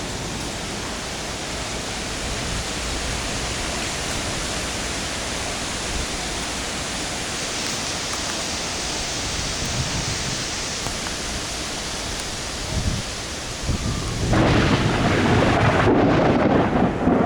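Thunderstorm with rain and wind making a steady hiss, then a sudden louder surge with a deep rumble about fourteen seconds in, most likely thunder.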